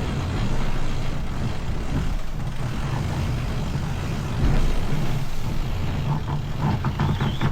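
Steady low rumble of a sailboat underway in rough southern seas, with a few short knocks or creaks near the end.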